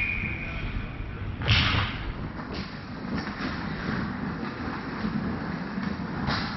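Sounds of play in an ice hockey game: a loud, sharp scrape-and-knock about one and a half seconds in, then several fainter short scrapes, over the rink's steady background noise. A brief steady high tone sounds at the very start.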